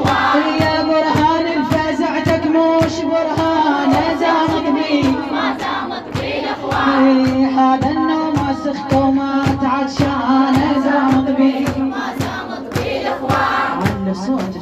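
Latmiya outro: layered, wordless choir-like voices holding long notes over a steady percussive beat of about two strikes a second.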